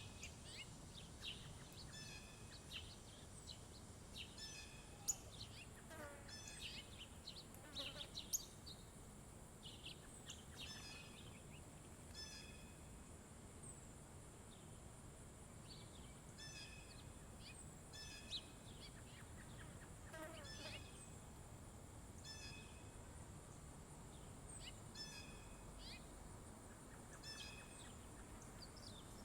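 Small songbirds chirping faintly, short repeated chip-and-twitter phrases every second or two with a few longer downward-sliding calls, over a steady high-pitched hiss.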